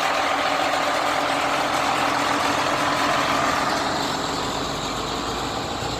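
Heavy truck engine running loudly and steadily, easing off a little about four seconds in.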